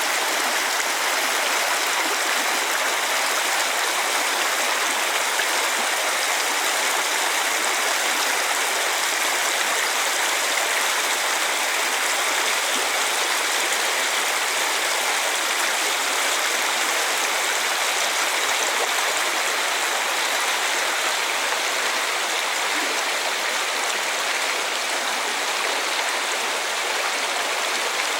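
Mountain stream rushing steadily, a constant even sound of running water.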